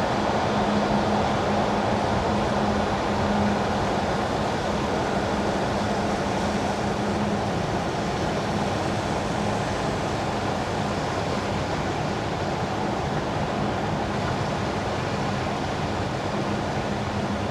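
Car tyres hissing steadily on wet winter asphalt while driving, with a steady low hum that fades away about seven seconds in.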